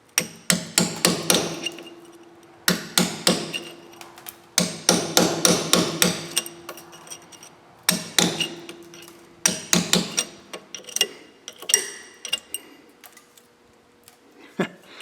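Hand hammer striking the steel of a truck's rear axle in quick bursts of blows with a metallic ring, knocking at the rusted brake line retaining tabs, then a few lighter taps near the end.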